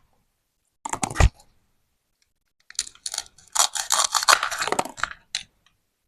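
Plastic toy fruit and vegetables being cut apart with a toy knife: a short crackle about a second in, then a longer run of dense crackling clicks from about three seconds in to five and a half.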